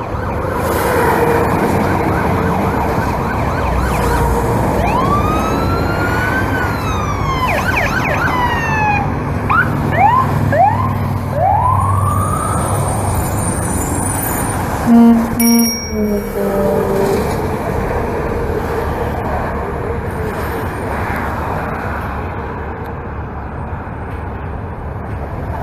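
Police escort sirens going by on the highway: first a slow rise and fall, then several quicker sweeps, over a steady rumble of traffic. A short, loud horn blast comes about fifteen seconds in.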